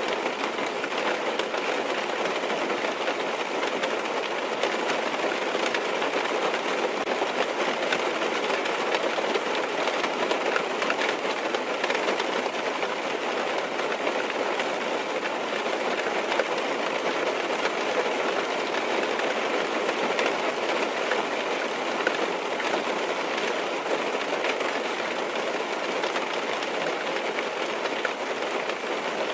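Steady rain drumming on a car's roof and windows, heard from inside the cabin as a dense patter of countless small drop impacts that never lets up.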